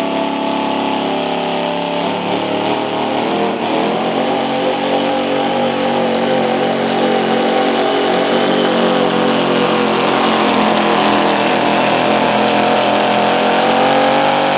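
Light Pro Stock diesel 4WD truck engine at full throttle, pulling a weighted sled. It runs loud and steady, its pitch sagging a little midway and climbing again toward the end, then cuts off suddenly.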